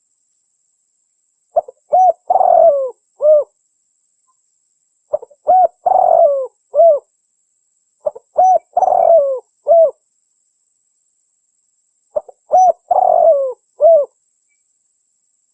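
Spotted dove cooing: the same phrase of several short coos around one longer coo, repeated four times about every three and a half seconds. A recorded lure call used to draw wild spotted doves in for trapping.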